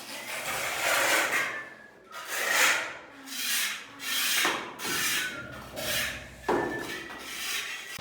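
Repeated rasping, scraping strokes, about one a second, each swelling and fading.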